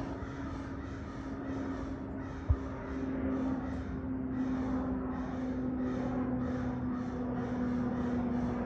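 Crows cawing over and over in an agitated racket, set off by a flying macaw. Under the calls runs a steady droning hum that cuts off abruptly near the end.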